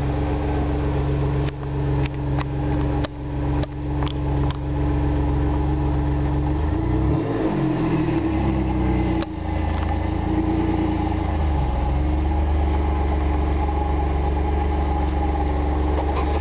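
Exhaust of a 1998 Pontiac Firebird's 3800 V6 through a Dynomax crossflow muffler, idling steadily, with one quick blip of the throttle, up and back down, about seven seconds in. A few sharp clicks come over the idle in the first few seconds.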